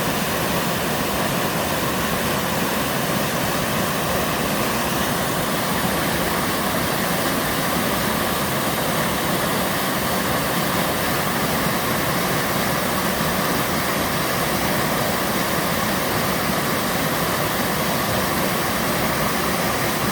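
A sliding waterfall on a mountain stream, water rushing steadily down the rock in an even, unbroken wash of sound.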